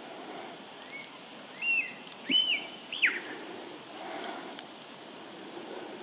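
Lyrebird song: four short clear whistled notes in quick succession, rising to a held high note, then a fast downward-swooping whistle. A steady background hiss runs underneath.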